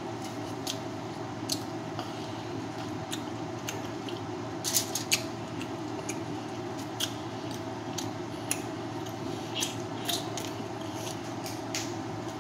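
A person chewing food with the mouth closed, close to the microphone: irregular wet smacks and clicks, several of them sharper around five seconds in and again near ten seconds, over a steady background hum.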